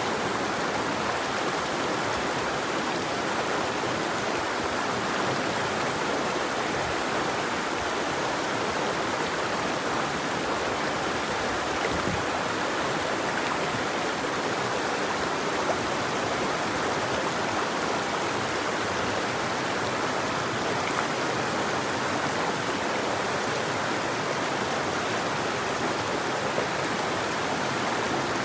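River water flowing over rocks in a steady, even rush with no birds.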